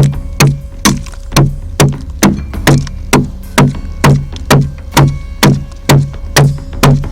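A blade chopping steadily into ponderosa pine, hollowing out a dugout canoe: sharp, regular strikes about two a second, each with a dull thud from the wood.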